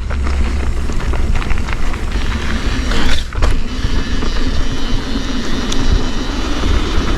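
Wind buffeting the camera microphone as a mountain bike rolls down a trail, with steady tyre noise and frequent clicks and rattles from the bike. A brief swish comes about three seconds in.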